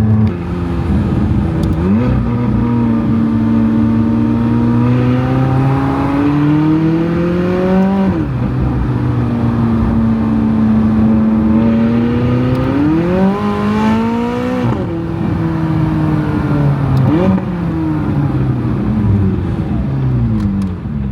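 McLaren 600LT's twin-turbo V8 accelerating through the gears. The revs climb, drop sharply at an upshift about eight seconds in, climb again and drop at another shift about fifteen seconds in, then rise and fall briefly twice near the end.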